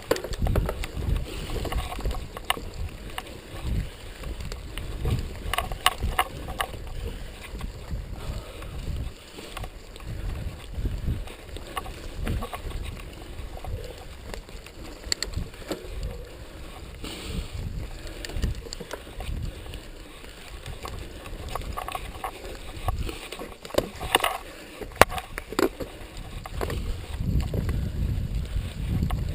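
Mountain bike ridden over a rough dirt trail: irregular rattles and knocks from the bike over bumps, with a steady low rumble of wind and motion on the microphone.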